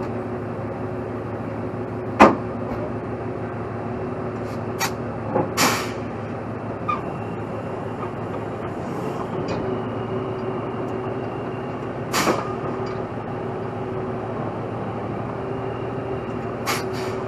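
Heavy truck engine running steadily with a constant hum, and a handful of short sharp knocks, the loudest about two seconds in and another about twelve seconds in.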